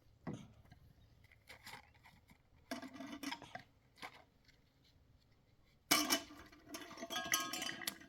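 Household objects being handled: a few separate knocks, then a longer clatter with a brief clink and ring near the end, like dishes or utensils being moved about.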